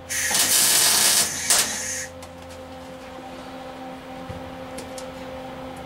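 MIG welder arc crackling for about two seconds while tacking thin galvanized sheet metal, with a brief break partway, then stopping suddenly; the weld burns through the metal. A steady hum follows.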